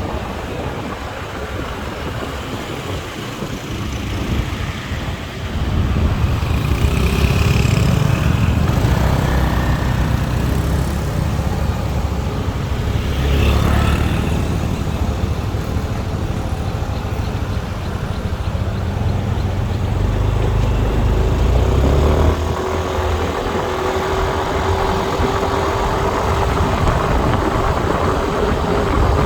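Motorbike riding through city traffic, heard from on board: a steady engine and road rumble that grows louder about six seconds in and eases after about twenty-two seconds.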